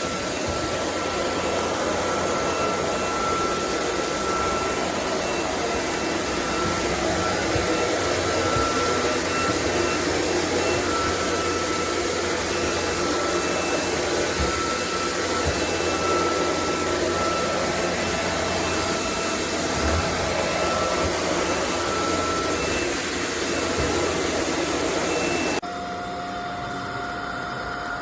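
SunSare X11 cordless stick vacuum running steadily, a loud airy rush with a high whine. Near the end the sound drops in level and the whine shifts to a different pitch.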